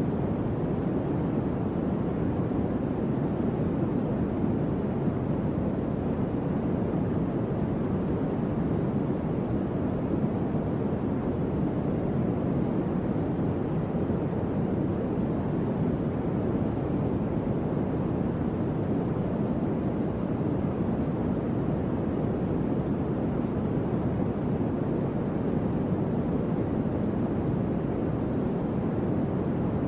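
Electric fan running steadily: an even, low whooshing hum of moving air with no changes.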